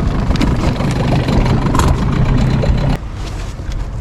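A boat's motor running steadily, dropping off abruptly about three seconds in.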